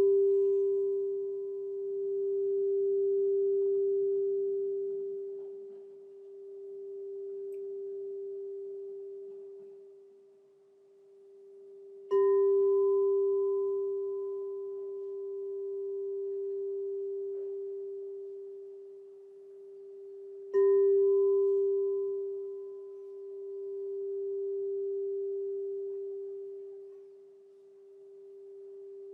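Crystal singing bowl struck twice, ringing a single deep, steady tone with a fainter higher overtone. Between strikes the ring slowly swells and fades in long waves as it dies away.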